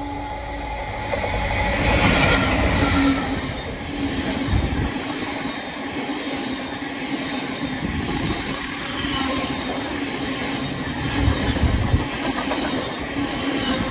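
Diesel train passing on the line, a steady engine note over the running noise of wheels on rails, loudest about two seconds in.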